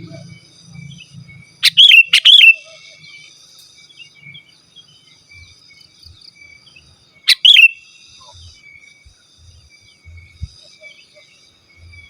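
Sooty-headed bulbul (kutilang) calling in loud bursts of sharp, sweeping whistled notes: two or three notes about two seconds in, and another burst about seven seconds in. Faint, steady high chirping runs underneath.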